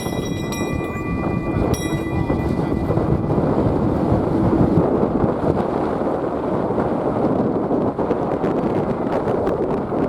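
Jet airliner engines at takeoff thrust: a steady low rumbling roar, with a thin high whine over it in the first few seconds, and strong wind buffeting the microphone.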